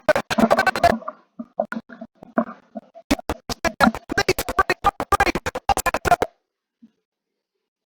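Streamed playback of a Formula One race clip, breaking up into rapid choppy fragments many times a second from a failing internet connection, then cutting out about six seconds in.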